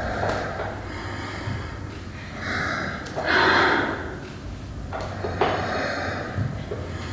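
Loud breathing: sharp breaths and gasping exhalations, the strongest about three seconds in, with a few light knocks and a low steady hum underneath.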